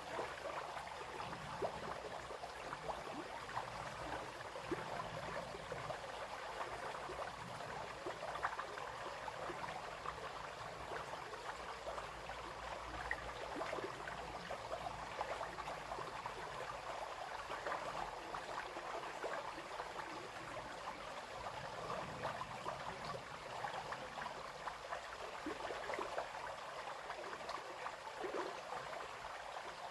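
A small brook babbling and splashing over stones, a steady rush of water with many quick, irregular splashes.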